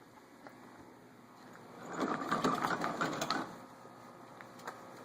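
A small mechanism rattling rapidly for about a second and a half, starting about two seconds in, with a few single clicks around it.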